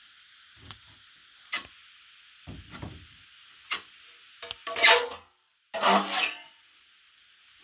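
Steel drywall knife scraping and tapping as joint compound is worked onto a patch: scattered light taps and short scrapes, then two loud, long scrapes about five and six seconds in.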